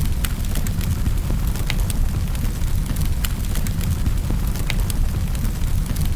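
Wood fire in a fireplace crackling: irregular sharp snaps and pops, a couple a second, over a steady low rumble of burning.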